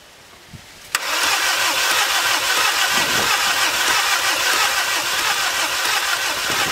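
Volkswagen Jetta 1.9 TDI diesel engine cranking on the starter, starting suddenly about a second in and running steadily without catching. The engine turns over but won't start, with heavy blow-by out of the open dipstick tube, which the owners put down to worn-out piston rings.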